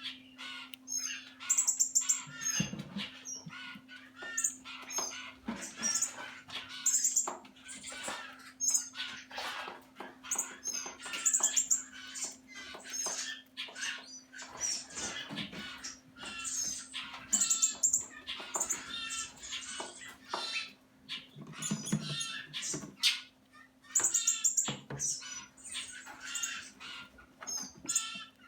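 Young red-bellied woodpeckers calling, with many short, high notes repeated and overlapping throughout. A steady low hum runs underneath.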